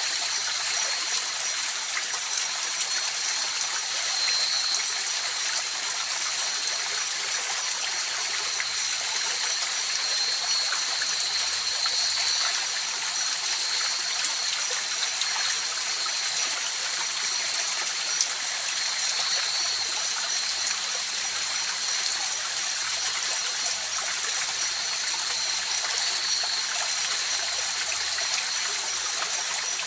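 A river or stream flowing steadily, with an even rush and trickle of water. A thin, steady high-pitched tone runs over it throughout.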